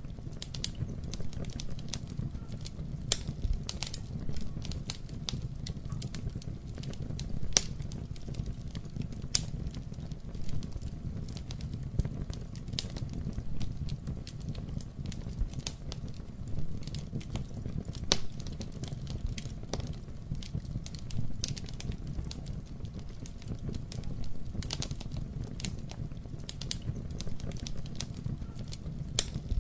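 Campfire burning with irregular sharp crackles and pops of wood over a steady low rumble of the flames.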